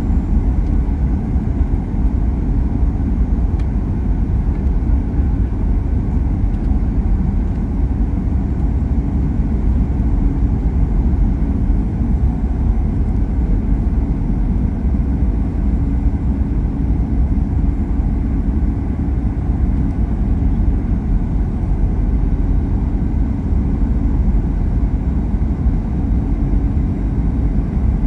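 Steady low rumble of engine and airflow noise inside the cabin of a Boeing 737 MAX 8 airliner in flight.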